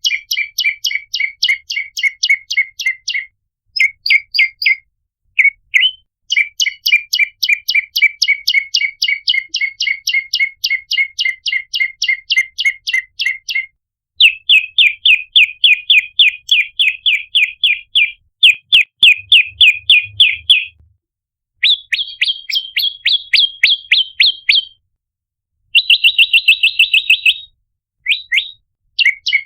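Prenjak lumut, a small songbird, calling in fast trains of sharp chirps, roughly eight to ten a second, in bursts of a few seconds with short breaks. The pitch and pattern shift from burst to burst. This is the lure call used to draw prenjak in.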